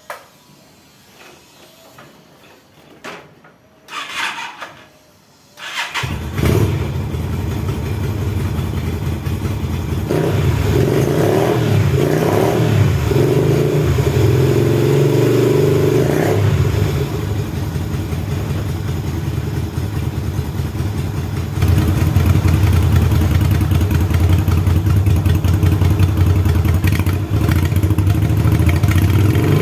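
Kaisar Ruby V250 motorcycle's 250 cc V-twin engine started about six seconds in after a few short knocks, then running at idle with an uneven patch of throttle, and running louder from about two-thirds of the way through.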